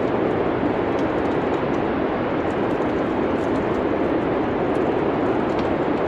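Steady winter-wind ambience: an even, low whooshing noise, with faint, scattered crackles of a wood fire.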